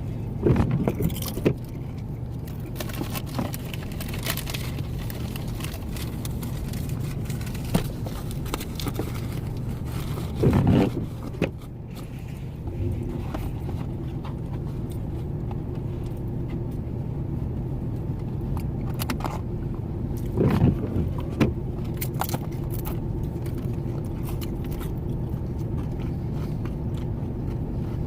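Steady low hum of a parked truck idling with the heater on, with a faint steady tone joining about twelve seconds in. Short bursts of rustling handling noise come three times: near the start, about ten seconds in and about twenty seconds in.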